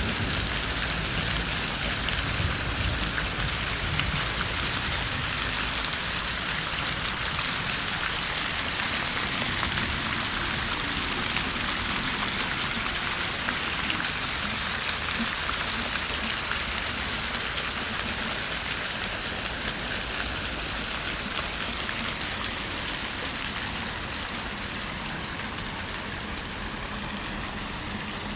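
Fountain water falling and splashing onto water in a steady, dense patter, easing off slightly near the end.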